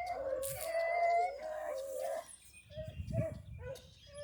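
Rabbit hounds baying on a rabbit's trail. Two voices hold long, wavering bawls that overlap for the first two seconds, then break into shorter cries, with a low rumble about three seconds in.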